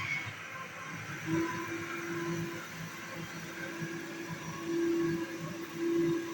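Vacuum cleaner running with a steady motor hum, its tone getting louder now and then.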